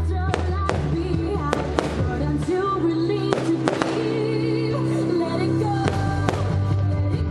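Fireworks shells bursting in a series of sharp cracks, several close together, over loud music with sustained notes that is played along with the display.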